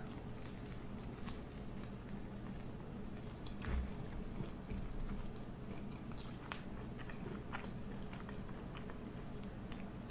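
A person chewing and biting food close to the microphone, with small crunches and clicks. A sharp click comes about half a second in and a soft thump a little before four seconds.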